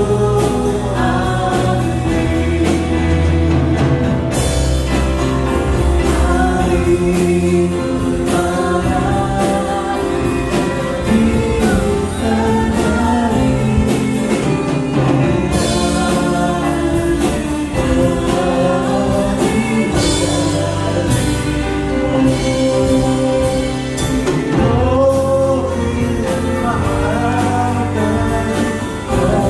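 A group of singers performing a gospel-style song with instrumental backing and a steady beat.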